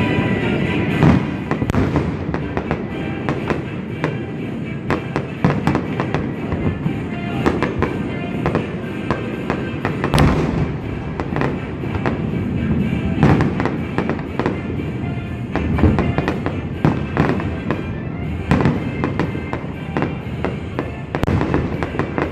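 Fireworks going off in a dense, irregular string of bangs and crackles, with several louder reports standing out, over music playing underneath.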